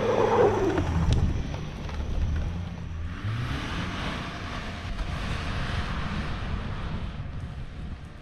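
Car engine running hard as the car ploughs forward through about two feet of fresh snow. About three seconds in, a rushing hiss takes over and the engine sound fades toward the end.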